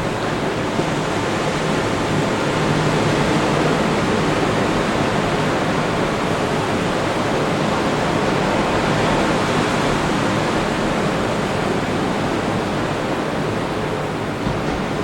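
Ocean surf breaking on the beach: a steady, continuous wash of noise.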